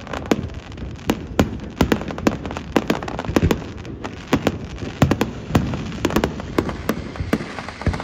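Aerial fireworks display: a rapid, irregular barrage of shell launches and bursts, about three sharp bangs a second, over a steady rumble.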